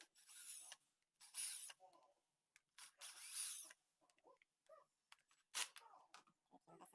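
Screws being backed out of the front gear housing of an angle grinder: three short, faint scraping, squeaking bursts in the first few seconds, then a few light clicks of small metal parts.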